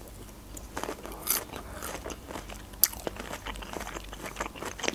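Close-miked chewing of a mouthful of food, with irregular small crunches and crackles and a few sharper clicks.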